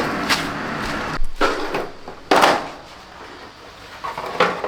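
Knocks and clunks of scooter parts being handled and set down during disassembly, with a few separate sharp knocks, the loudest about halfway through.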